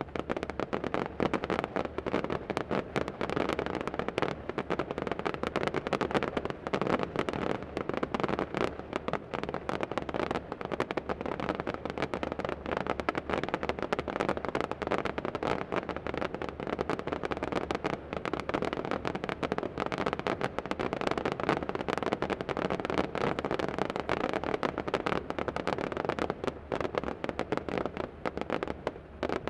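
Fireworks display: a dense, continuous barrage of bangs and crackles, many per second, that starts suddenly and keeps up without a break.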